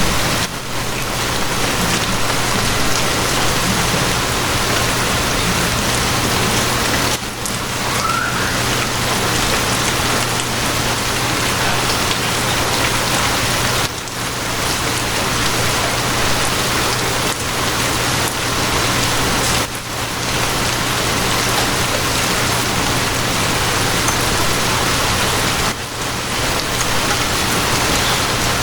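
Steady, heavy rain falling, an even dense hiss of drops on hard surfaces. The level dips briefly about every six seconds.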